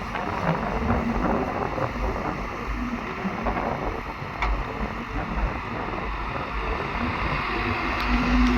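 Diesel earthmoving machinery running with a steady low rumble and a rushing noise, its engine hum coming and going.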